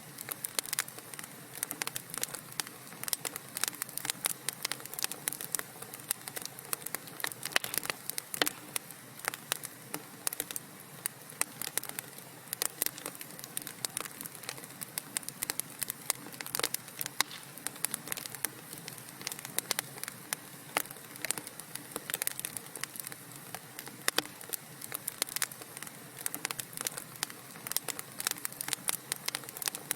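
Wood fire burning in a fireplace, crackling steadily: many small sharp pops and snaps, several a second, over a soft hiss.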